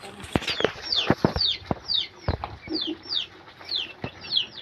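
Chicks peeping: short, high, falling peeps, two or three a second, with scattered sharp clicks and knocks among them.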